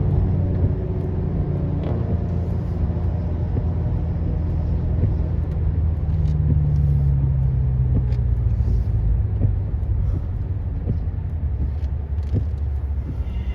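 BMW M6 Competition's twin-turbo V8 running at low revs, a steady low drone that rises a little in pitch about six seconds in and eases back down, with a few light clicks over it.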